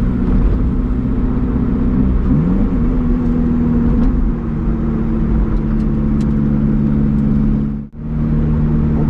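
Supercharged 1.8-litre inline-four (2ZR) of a Lotus Elise Sport 220 II running under way, heard from inside the cabin, with road noise underneath. The engine pitch shifts briefly about two seconds in and then holds steady.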